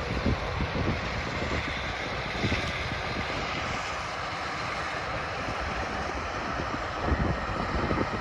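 Steady engine and machinery noise from harvest equipment in a wheat field, with wind buffeting the microphone in low gusts.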